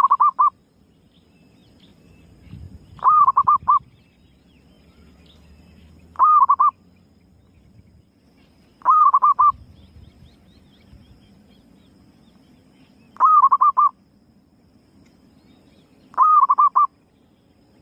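Female zebra dove (perkutut) calling: short bursts of three or four quick, rolling coos, repeated six times at intervals of about three seconds.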